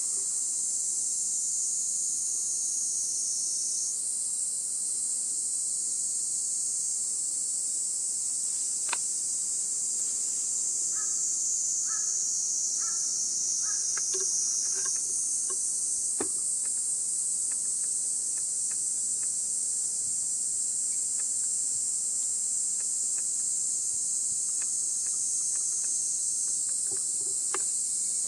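A chorus of insects shrilling steadily at a high pitch, with a few faint short chirps and ticks in the middle and near the end.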